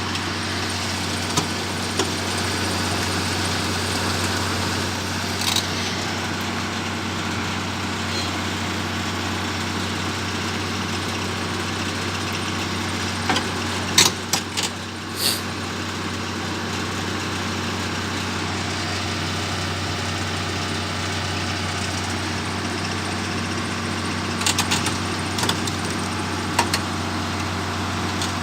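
Heavy diesel engine idling steadily, with a few short sharp clanks about halfway through and again near the end.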